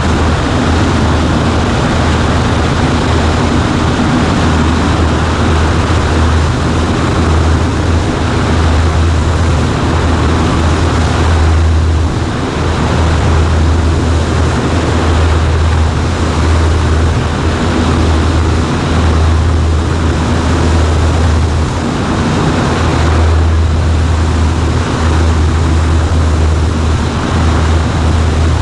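Cessna 140A's piston engine and propeller in flight, a loud steady drone with a hiss of air noise over it.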